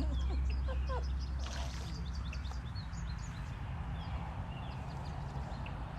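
Small birds chirping and calling, many short chirps throughout, over a steady low rumble that is strongest in the first couple of seconds.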